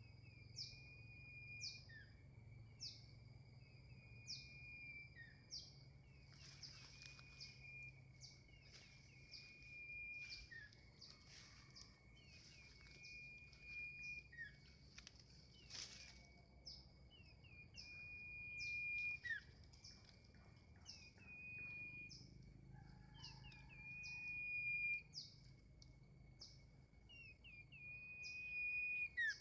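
Bulbuls calling: short, sharp falling chirps repeated about once a second, with other chirps overlapping at times. A faint steady high tone runs underneath.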